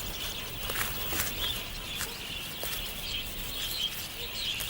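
Outdoor natural ambience of many small birds chirping together in a steady background chatter, with scattered faint clicks.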